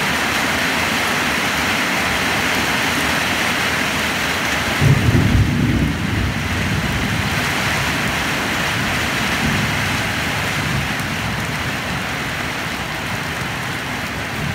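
Heavy rain falling steadily on a waterlogged field and plants, with a short low rumble of thunder about five seconds in and a fainter one a few seconds later.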